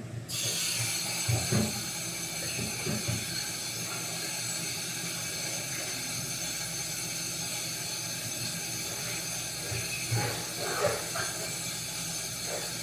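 Steady hiss of food cooking on a stove, starting suddenly just after the beginning, with a few soft knocks of cookware around it.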